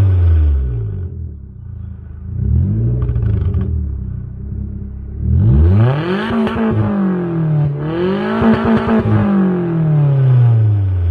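Suzuki Kizashi's 2.4-litre four-cylinder engine revved through a modified exhaust with the mid muffler deleted and a flap valve ahead of the rear mufflers. A short blip at the start and a smaller one around three seconds in are followed by two longer, higher revs from about five and a half seconds, the second settling back toward idle near the end.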